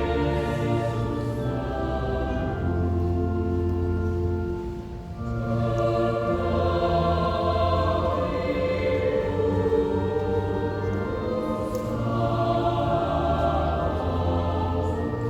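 Choir singing sustained chords over a steady low bass line, with a short break between phrases about five seconds in.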